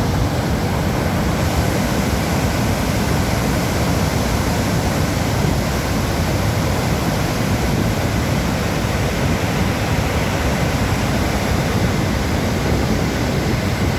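Water released through the Bhakra Dam flood gates, pouring down the spillway in a loud, steady, unbroken roar of rushing water.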